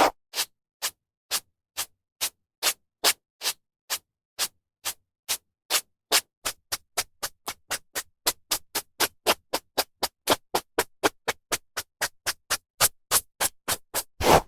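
A hairbrush stroking through hair in short, evenly spaced brushing swishes, about two a second, quickening to about four a second from about six seconds in.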